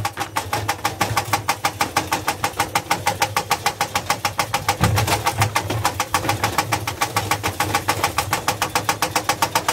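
Whirlpool AWO9561 washing machine running to destruction with a rapid, very regular knocking, about six or seven knocks a second, and a couple of deeper thumps about halfway through.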